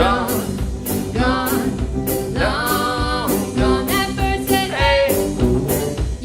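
Live band music with a singing voice over a steady beat of drum hits.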